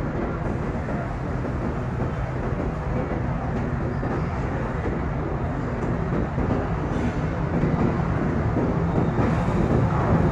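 A train rumbling steadily along the track, growing somewhat louder in the second half.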